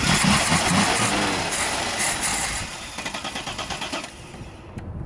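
Twin-carburetor engine of an old car that sat unstarted for years, running roughly on fuel poured into its carburetors, then weakening into separate pulses and dying out about four seconds in.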